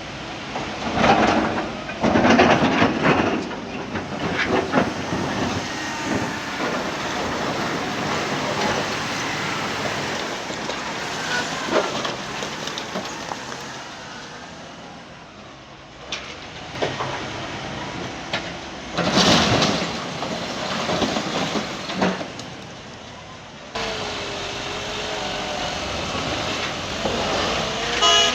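Heavy machinery working, a steady mechanical din with loud crashing surges twice. After an abrupt change near the end, an engine note dips and then rises as it revs.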